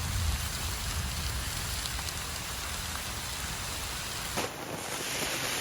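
Steady rain coming down, an even hiss of drops. There is one short knock about four and a half seconds in.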